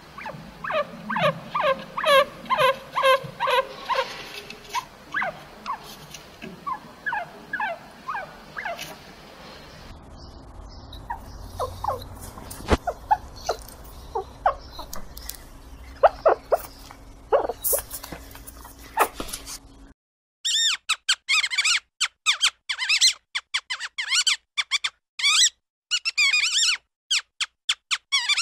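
Chinchilla squeaking: a quick run of short pitched squeaks, about two a second, then scattered single squeaks. About 20 seconds in, this gives way to rapid, higher-pitched squeaking of mice.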